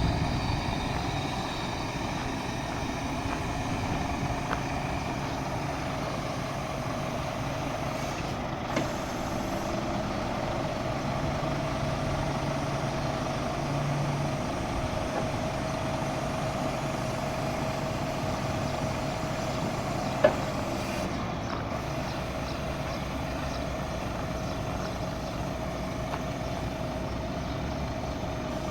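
Scania P 230 truck's diesel engine running steadily, with a thin steady whine over it. There is a light click about 9 seconds in and a sharper click about 20 seconds in.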